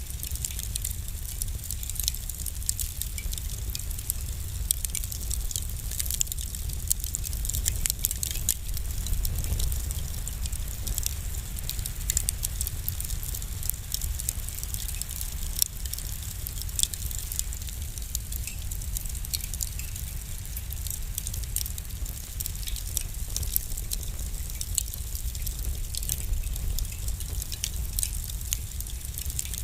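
Wood fire burning in a fireplace: constant crackling with frequent sharp pops over a low, steady rumble of flame.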